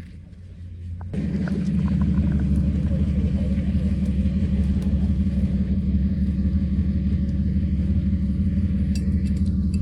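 Off-road vehicle's engine rumbling steadily and loudly with a fast pulsing beat, cutting in abruptly about a second in.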